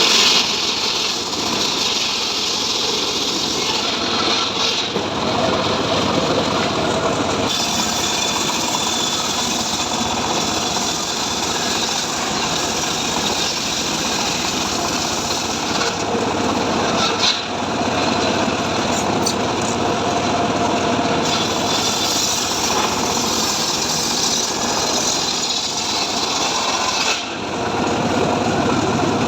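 Small engine-driven saw running steadily under load, cutting mahogany wood.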